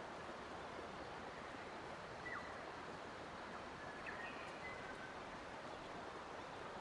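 Steady rush of flowing water, with a few faint, short bird chirps about two seconds in and a small cluster of them around four to five seconds in.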